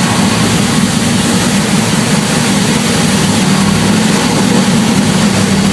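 Jon Kaase 520 cubic inch Boss 429-style big-block V8 with a big cam running steadily on the dyno, not revving, on its first start with the oil still cold.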